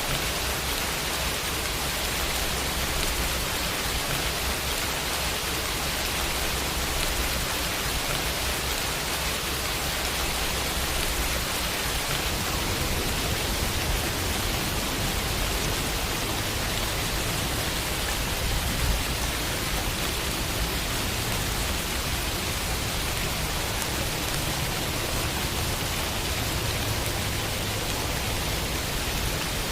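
Steady rain falling and pattering on a window pane, a continuous even hiss with a low rumble underneath.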